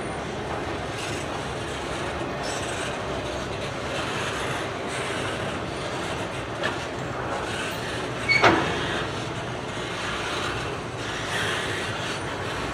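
A train rolling past on the rails, a steady rumbling wheel noise. A short, sharp metallic screech comes about eight and a half seconds in.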